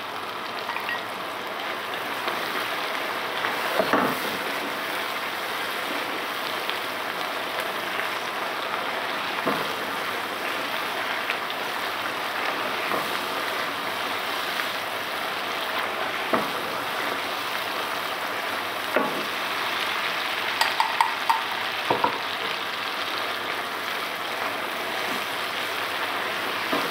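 Onion-tomato masala sizzling steadily in hot oil in a nonstick wok as it is fried down (bhuna). A utensil knocks sharply against the pan now and then, in a quick run of taps about two-thirds of the way through.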